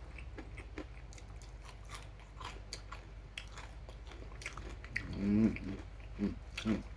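Crunchy chewing of crisp fried chicken close to the microphone, many short crunches, with a brief hummed "mm" about five seconds in and two short vocal sounds near the end.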